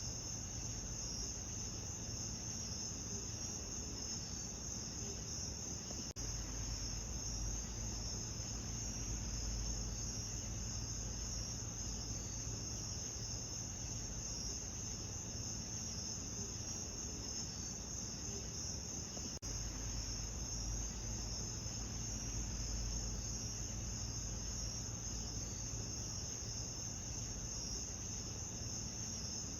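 Steady chorus of crickets chirping in a high band over a low steady rumble, used as a sleep ambience. The sound dips for an instant twice, about six seconds in and again near twenty seconds.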